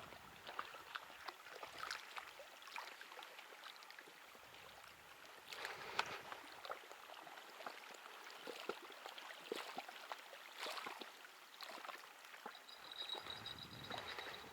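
Small waves lapping and splashing at the water's edge, with scattered small clicks and one sharper click about six seconds in.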